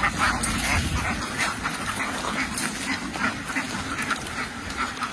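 A large flock of domestic ducks quacking, many calls overlapping into a continuous chatter.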